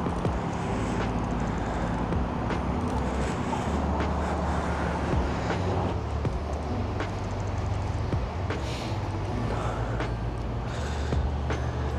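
City street traffic running steadily, under background music with sustained low bass notes and a steady beat of about one tick a second.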